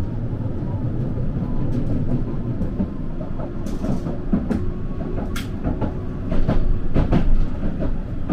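Tram running along the line, heard from inside the car: a steady low rumble with irregular sharp clacks of the wheels over rail joints and track work. The clacks come thicker and louder in the second half.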